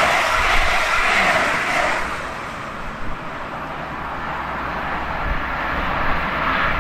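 Double-deck passenger train passing at speed, a loud rush of wheels on rails and air. About two seconds in it gives way to a quieter, steadier rail noise of a train running on the line, which slowly swells again.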